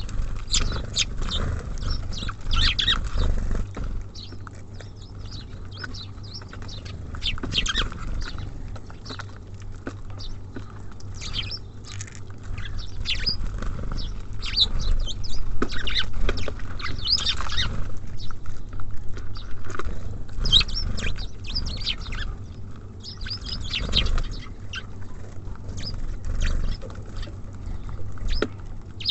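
Small songbirds at a feeder, tits and sparrows, chirping and twittering in many short high calls scattered throughout, with light taps. A steady low rumble runs underneath.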